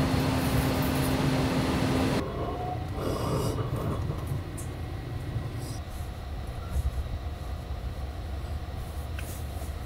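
Train running on rails, with a steady rumble. A louder stretch with a steady low hum cuts off abruptly about two seconds in, giving way to a quieter rumble with a few faint clicks.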